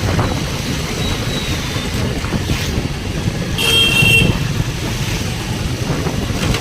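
Steady rumble of road traffic and a moving vehicle, with a vehicle horn honking once for about half a second near the middle.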